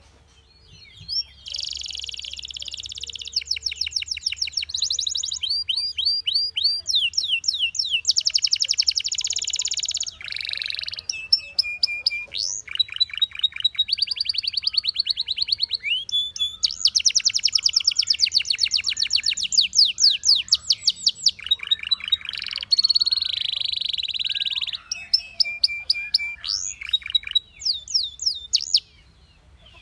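Domestic canary singing a long song of fast trills and rolls, switching from one rapidly repeated note to another every second or two. There is a brief pause in the first second and another just before the end.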